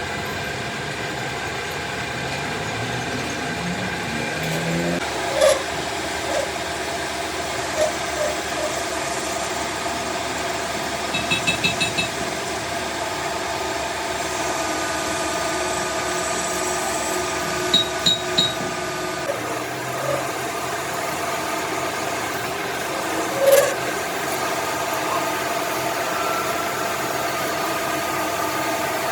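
A workshop machine tool running steadily with a humming whine, broken now and then by sharp metal clinks, including a quick run of about five ticks around eleven seconds in and three more near eighteen seconds.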